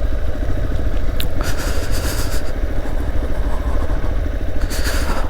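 Motorcycle riding down a steep hill road: engine and road noise under a heavy, steady low rumble, with a sharp click a little over a second in and short bursts of hiss around two seconds and near the end.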